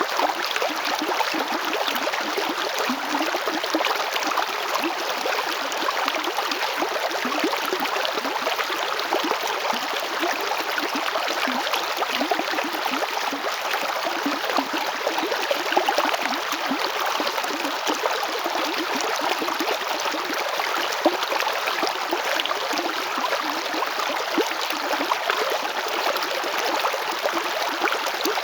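A river flowing steadily over stones: a continuous rushing and babbling of water, with small splashes and gurgles.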